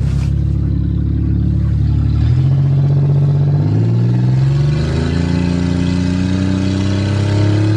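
Car engine running under way and accelerating, its note rising in steps about two seconds in and again around four to five seconds in.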